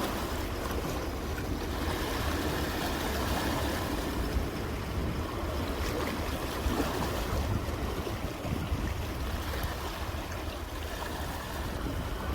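Sea waves washing on the shore, a steady surf noise that swells a little and falls back, with wind on the microphone.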